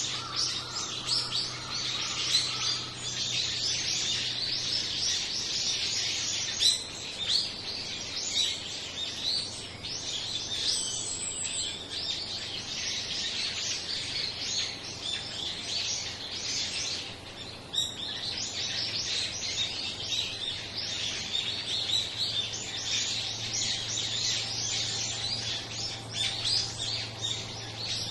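A large flock of small birds chirping and calling over one another, a dense, continuous chatter of short high notes while they feed together.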